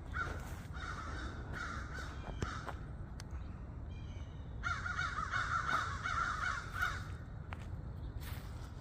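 Several crows cawing harshly, mobbing a barred owl: scattered caws in the first couple of seconds, then a dense run of overlapping caws for about two seconds past the middle. A low steady rumble sits underneath.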